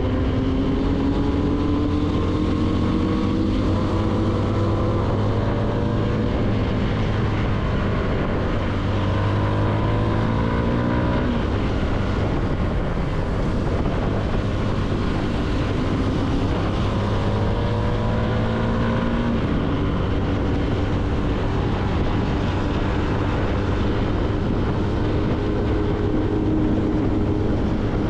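CFMoto motorcycle engine under way, its pitch climbing and dropping back several times as it accelerates through the gears, then holding steadier in the last third, over a constant rush of wind.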